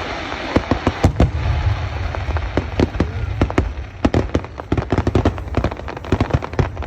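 Aerial fireworks in a rapid finale barrage. A crackling hiss in the first second gives way to sharp shell bursts, several a second, over a continuous low rumble.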